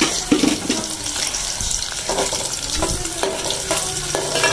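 Sliced onions sizzling in hot oil in a metal kadai, with a ladle stirring and knocking against the pan a number of times.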